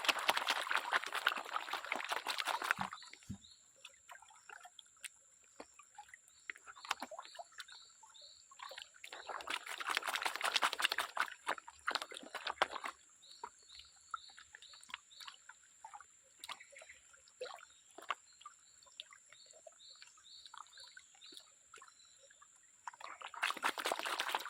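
Water sloshing and pouring in three stretches of a few seconds. Underneath runs a faint, steady high-pitched whine with a repeating short chirp.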